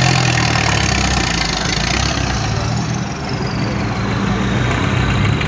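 A large engine running steadily at idle, with a constant low hum. A faint high tone glides down and then holds about halfway through.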